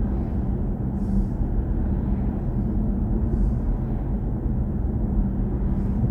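Steady road and tyre rumble inside the cabin of a BMW i4 M50 electric car on the move, with a constant low hum running under it. Three short faint hisses come and go, about two seconds apart.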